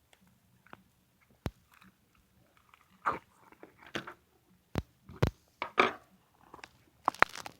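Clear slime with small round clay pieces mixed in, squished and pressed by hand: irregular sticky squelches broken by several sharp clicking pops.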